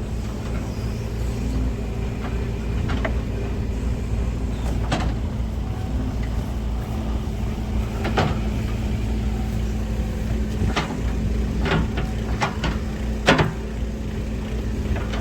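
Heavy diesel engine running steadily at an even pitch. Sharp, short knocks or clanks come about six times over the stretch.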